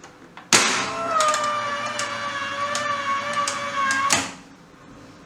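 Hyundai HiAN16 air circuit breaker under test after an undervoltage-release trip: a sharp mechanical clack, then a steady whine, its pitch sagging slightly, for about three and a half seconds, ending in a second clack.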